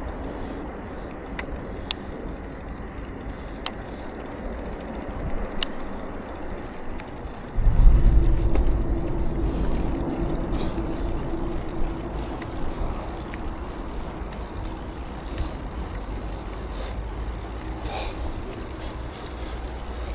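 Bicycle riding noise picked up by a bike-mounted action camera: road and wind noise with a few sharp clicks in the first several seconds. About eight seconds in it turns into a louder low rumble with a steady hum, easing off toward the end.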